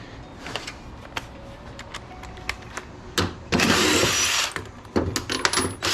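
Handheld power drill/driver run in bursts, trying to back out a stubborn bolt: light metal clicks at first, then a short burst a little past three seconds, a louder run of about a second, and several short bursts near the end.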